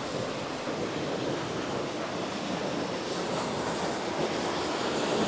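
Waterfall water rushing and crashing in a steady roar of white noise.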